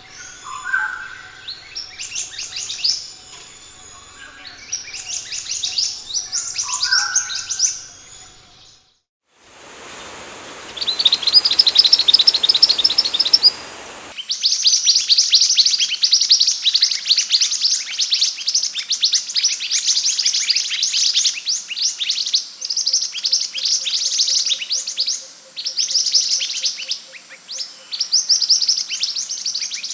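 Minivet (sepah hutan) calling: rapid series of high, thin chirps and twitters. A brief silence about nine seconds in is followed by a few seconds of chirps over hiss, then dense, continuous chirping.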